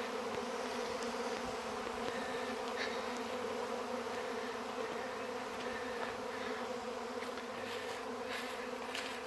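Swarming honey bees: thousands of bees in the air around the hive making a steady, dense buzz, which is loud.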